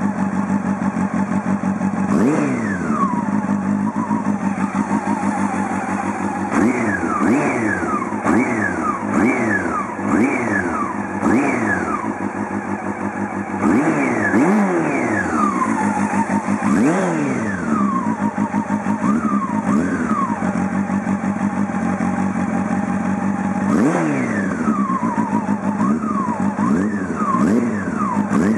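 Honda CB400 Super Four's inline-four engine through a Yoshimura titanium slip-on muffler, running at idle and blipped over and over. Each blip rises quickly in pitch and falls back to idle, with a run of rapid blips between about six and twelve seconds in.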